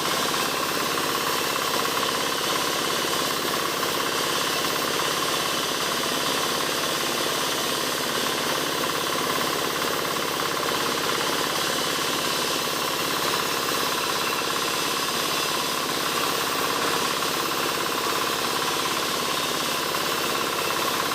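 Powered wood-sawing machine running steadily, an even mechanical noise with a constant hum and no let-up.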